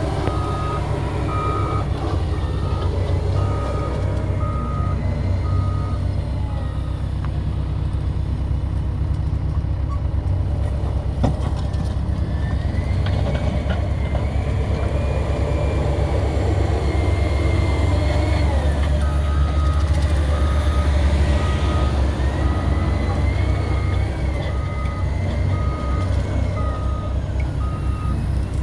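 CAT 120M2 motor grader's diesel engine running under load with a heavy, steady rumble, while its reversing alarm beeps about one and a half times a second for the first several seconds and again through most of the last third.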